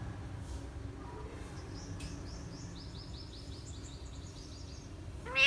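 Parrot calling: a quick run of high, rapidly repeated chirps, then a loud rising call near the end.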